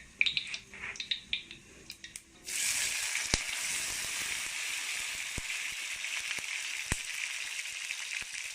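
A few light clicks and knocks, then about two and a half seconds in, hot oil in a tawa suddenly bursts into a loud, steady sizzle as chopped onions go in. A few sharp clicks sound over the frying.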